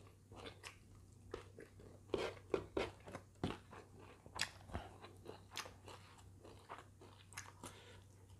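A person chewing a mouthful of rice and stir-fried greens eaten by hand, giving soft, irregular crunches and mouth clicks a few times a second.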